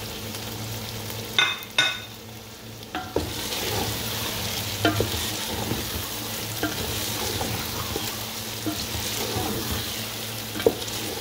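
Bitter gourd strips and chicken koftas sizzling in hot oily masala in a metal pot while a spatula stirs them. Two short metallic clinks come about a second and a half in. The sizzling grows louder from about three seconds as the stirring turns the mix, with a few sharp knocks of the spatula against the pot.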